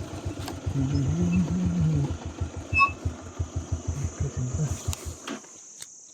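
Motorcycle engine idling with an even low putter, switched off about five seconds in. A steady high insect buzz, like crickets, carries on behind it.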